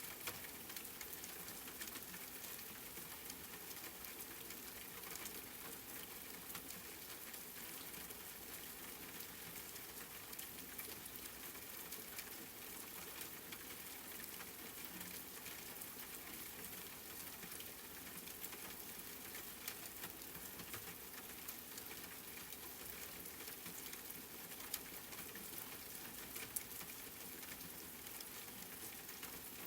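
Steady rain falling and pattering on a surface, an even hiss scattered with fine drop ticks and a few louder drops.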